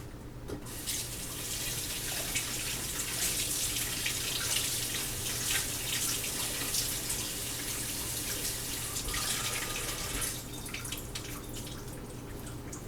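Kitchen tap running while hands are washed under it, water splashing into the sink; the flow shuts off about ten seconds in.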